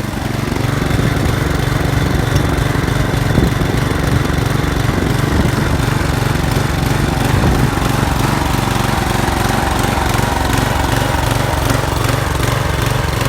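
Small engine of an old rear-engine riding mower running steadily, with an even low chugging.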